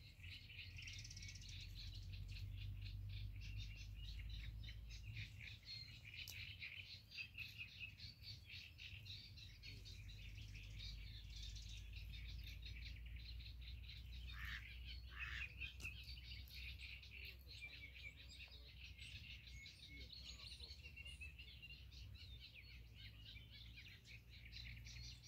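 Birds chirping and singing steadily, a dense run of quick high notes, faint over a low rumble.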